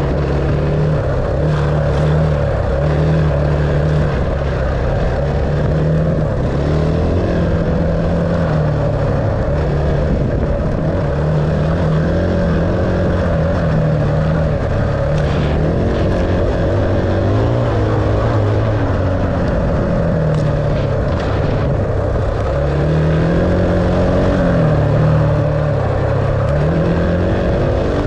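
Dirt bike engine running under changing throttle while riding, its pitch rising and falling every few seconds, with a few sharp knocks about halfway through.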